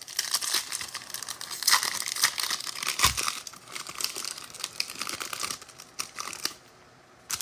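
Wrapper of a trading card pack being torn open and crinkled by hand: an irregular run of crackles that stops near the end.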